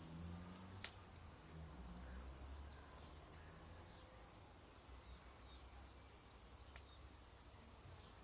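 Near silence: faint room tone with a low hum, a scatter of faint short high chirps, and two soft clicks, one about a second in and one near the end.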